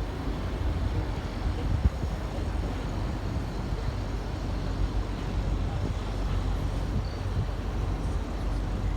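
Steady low rumble of a small pleasure boat under way, its engine mixed with wind on the microphone, with a single knock about two seconds in.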